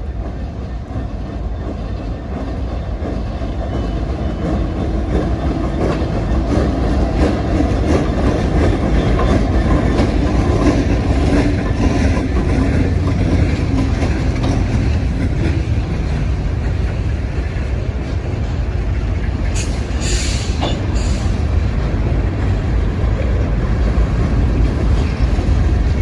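Norfolk Southern local freight train passing, its locomotive and cars running by steadily. It grows louder over the first ten seconds, then holds, with a brief high-pitched sound about twenty seconds in.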